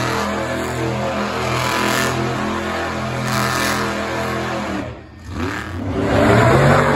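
Monster truck engine running and revving in repeated swells. It drops off briefly about five seconds in, then revs up again, loudest near the end.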